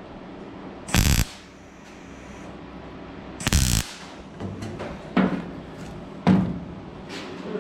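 Short bursts of MIG welding, two loud tack welds of about a third of a second each, a couple of seconds apart, on a rusty steel fender patch. They are followed by a few lighter sharp knocks on the sheet metal.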